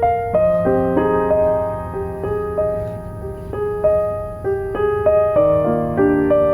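Soft, slow piano music: single melody notes struck about one or two a second, each ringing and fading, over held lower notes and chords.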